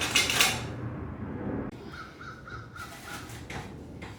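A short noisy clatter at the start, then, after an abrupt cut, a bird calling in a quick run of about six short harsh notes.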